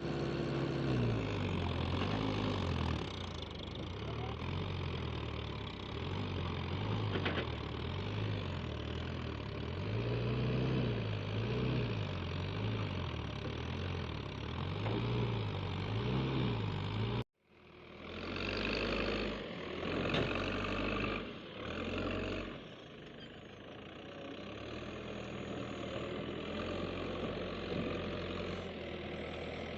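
Heavy diesel engine of a tractor or backhoe loader revving up and down again and again under load. After a sudden cut it comes back with a few surges, then runs more steadily.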